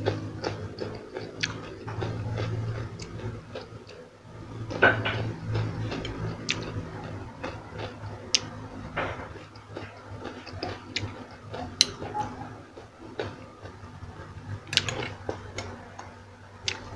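Close-up biting and chewing of raw cucumber and carrot slices: irregular crisp crunches throughout, with the sharpest ones about five seconds in and again near twelve and fifteen seconds.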